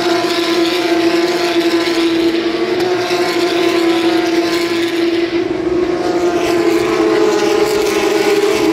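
Naturally aspirated flat-six engines of Porsche 911 GT3 Cup race cars at high revs as the field goes by at racing speed, several engine notes overlapping. The main note holds fairly steady throughout.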